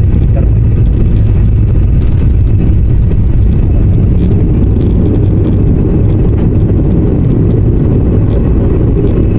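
Loud, steady low rumble inside a passenger airliner's cabin during landing.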